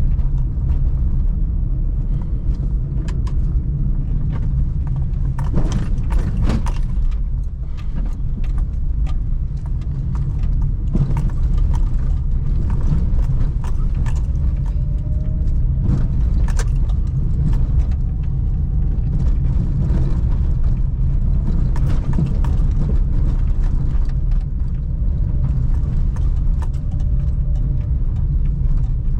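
Suzuki Celerio driving in city traffic: a steady low rumble of engine and road noise, with frequent short clicks and rattles throughout.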